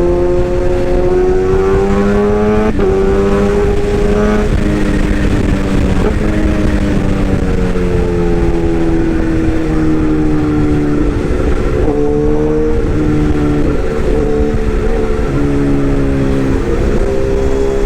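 Excavator running, several steady motor tones shifting up and down in pitch as the machine moves.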